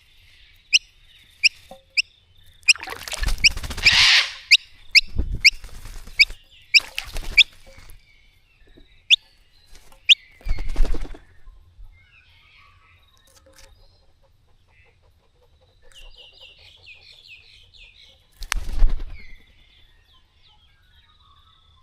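Small birds bathing in a bird bath: bursts of splashing and wing fluttering in the water, five times, with a quick series of sharp chirps through the first part and a short twittering call about three quarters of the way through.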